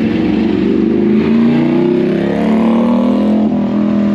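Motorcycle engine revving, its pitch rising for about two seconds, then dropping back and running steadily.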